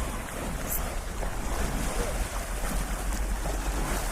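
Wind buffeting the microphone: a steady low rumble with a hiss of outdoor noise.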